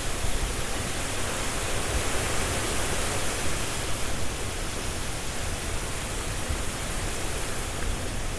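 Strong wind gusting steadily through tree foliage, with a low rumble and swelling a little in places.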